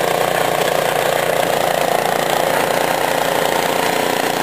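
Cub Cadet snowblower engine running steadily.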